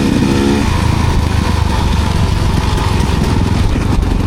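Enduro dirt bike engine running on a forest trail, heard close up from the rider's position. It revs briefly at the start, then settles into steady running.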